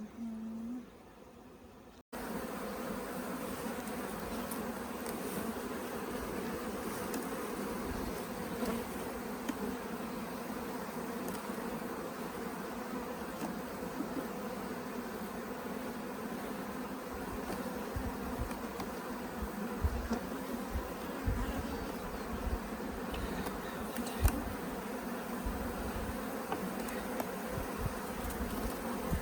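Dense, steady buzzing of a honeybee colony, many bees flying around an open hive, with a few low bumps and a sharp knock about three quarters of the way through.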